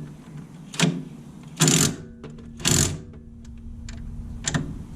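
Ratchet wrench on a seized suspension bolt: three short bursts of ratchet clicking with a few metal clinks between them, the bolt not budging.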